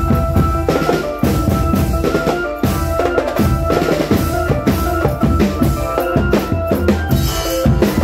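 Marching drum band playing: rapid bass and snare drum strokes under a held melody line.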